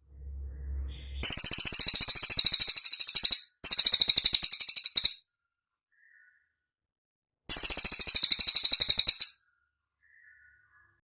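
Cililin bird singing: three rapid, very high-pitched trills of about ten notes a second, each lasting one and a half to two seconds. A low rumble comes before the first trill, and faint short chirps fall in the gaps.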